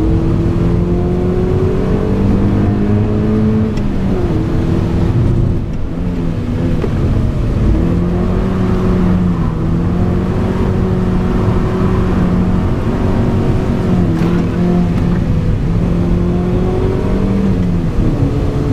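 Mazda MX-5 NB's four-cylinder engine heard from inside the cabin under hard driving on track, running at high revs with its pitch creeping up and then dropping sharply about four times. Road and tyre noise runs underneath.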